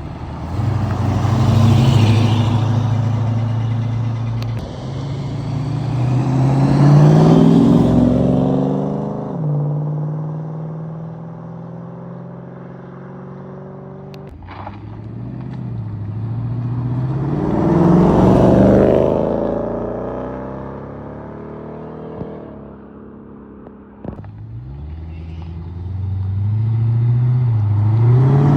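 Cars accelerating away one after another, each engine revving up in pitch and swelling as it passes, with quieter idling between them.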